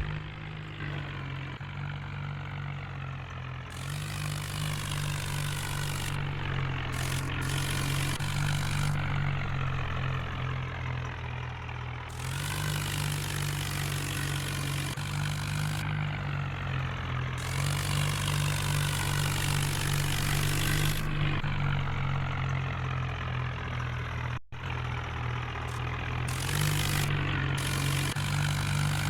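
Swaraj 963 FE tractor's diesel engine running steadily, with abrupt shifts in the higher-pitched noise over it several times and a brief dropout about three quarters of the way through.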